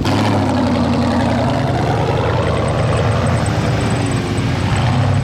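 Motor vehicle engine running steadily at a low, even pitch.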